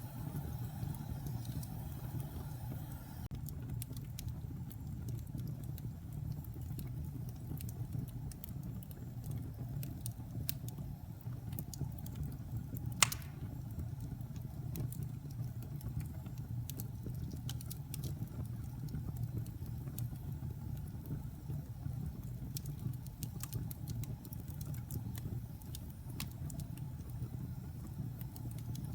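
Wood logs burning in a fireplace: a steady low rumble of flames with scattered small crackles, and one sharp, loud pop about halfway through.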